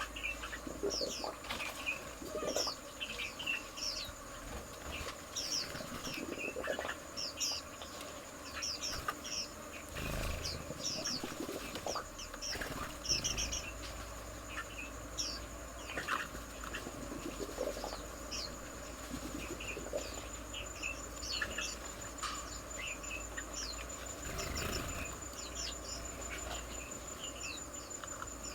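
Small birds chirping: many short, quick calls overlapping throughout, with a steady high-pitched tone running underneath.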